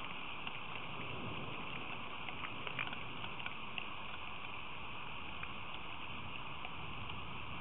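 Steady rain falling, with scattered short ticks of drops striking close by.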